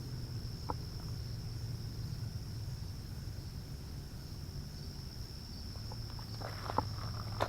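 Insects chirring in a steady, continuous high-pitched drone over a low hum. Near the end come a few sharp clicks and knocks.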